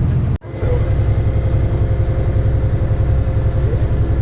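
A motor engine running steadily with a low, pulsing rumble. There is a brief break in the sound about half a second in.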